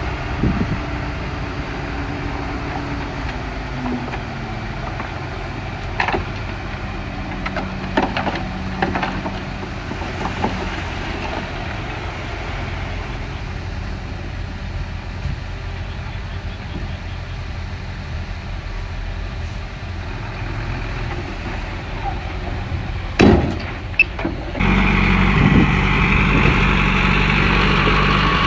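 Heavy diesel engine of a Komatsu bulldozer running steadily under load, with scattered metallic clanks and knocks and two loud knocks about 23 seconds in. Near the end the sound suddenly becomes louder, with a higher engine note.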